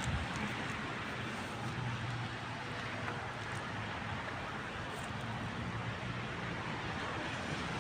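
Steady outdoor rush of wind in a May snowstorm, with a low rumble underneath.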